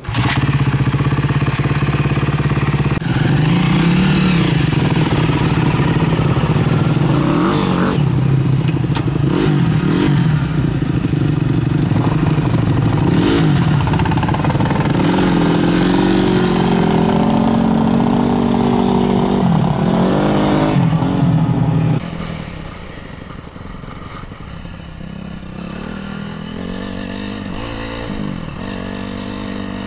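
Single-cylinder four-stroke off-road engine being ridden, loud and close, its pitch rising and falling as the throttle opens and closes. About two-thirds of the way through it drops suddenly to a quieter engine sound.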